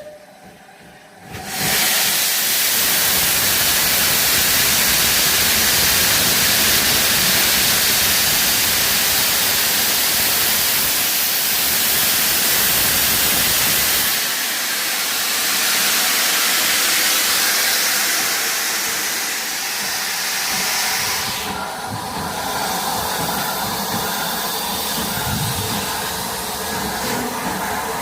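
Steam locomotive, Bulleid pacific 34046 Braunton, passing with a loud, steady hiss of steam that starts abruptly about a second and a half in. About halfway through the hiss eases as the train's carriages roll by.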